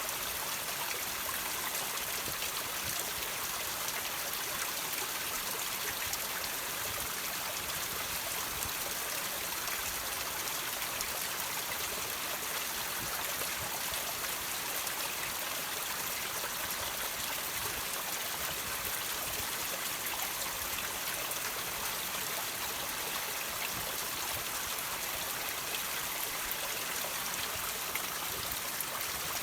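Water trickling and dripping off rocks, a steady patter of many small drops with no pauses.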